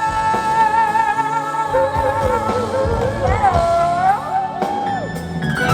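Live pop music: a female singer belts a long high note with vibrato over a live band, then sings two shorter held notes that fall in pitch, heard through the venue's PA.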